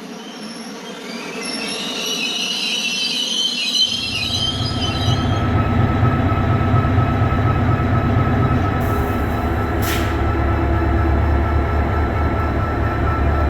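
Train wheels squealing on the rails, then a heavy low rumble that sets in abruptly about four seconds in as the train runs close by, with a short hiss about nine to ten seconds in.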